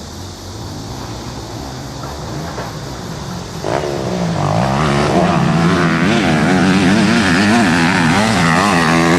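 Motocross dirt bike engine: a low steady engine hum, then about three and a half seconds in a much louder bike comes in suddenly, its engine pitch swinging up and down repeatedly as the throttle is worked.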